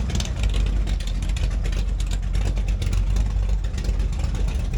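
Motorcycle engines running in a steady low rumble, idling with some revving.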